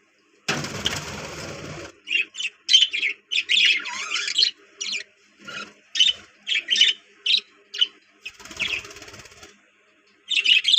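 Budgerigars chirping and chattering in quick, short calls. There is a burst of rustling noise near the start and another about two-thirds of the way through.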